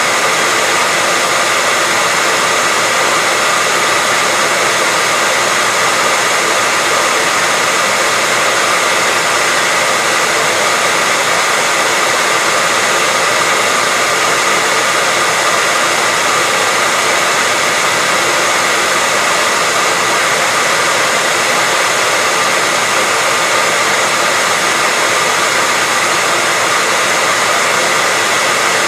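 Hair dryer running steadily: an even, unbroken whoosh of blown air with a faint steady whine in it.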